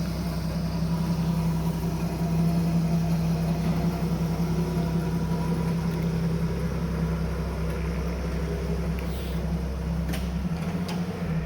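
MBB Bo 105 twin-engine helicopter heard from on board: a steady drone of rotors and turbines. Its lowest part thins out shortly before the end, a few clicks sound near the end, and the sound then cuts off suddenly.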